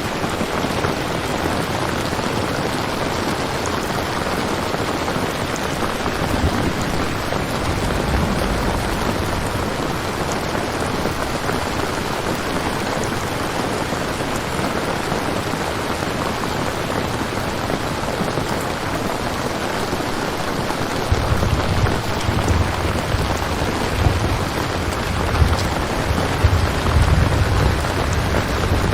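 Steady rain falling, with a deep rumble of thunder for a moment about a quarter of the way in and again through the last third.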